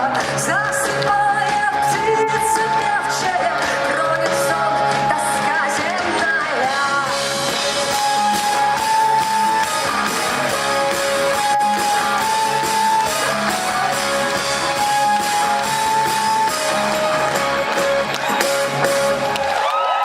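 Live rock band playing the closing passage of a song, with long held melody notes over guitar and drums, stopping abruptly on a final hit near the end that leaves the top end ringing.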